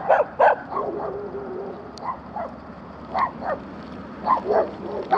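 A dog barking repeatedly in short, irregular volleys.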